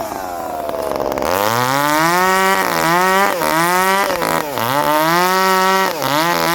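Two-stroke chainsaw at full throttle cutting through a hardwood ironbark log, its engine pitch sagging each time the chain loads up in the cut and climbing back, several times over.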